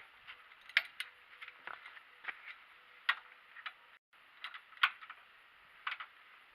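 Irregular sharp clicks and clinks, about a dozen, as of metal tools or parts being handled, over a faint steady hum, with a brief total gap about four seconds in.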